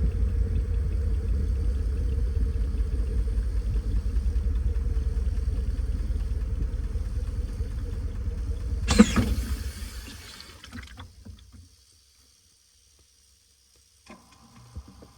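Washing machine running with a loud, steady low rumble, a sudden clatter about nine seconds in, then the rumble dies away to silence; a faint steady hum and a few clicks begin near the end.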